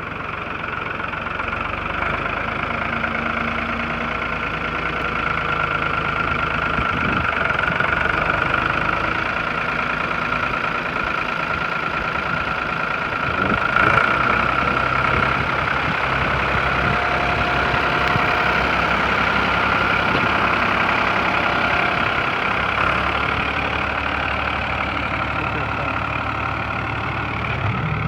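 Ford 4000 tractor's three-cylinder diesel engine running steadily, with a steady high whine over the low engine sound.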